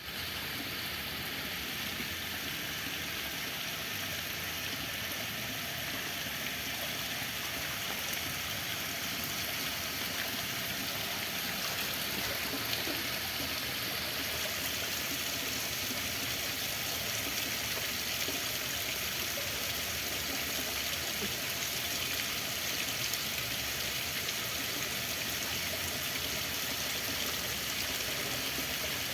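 Running water flowing steadily, an even rush that does not break or change.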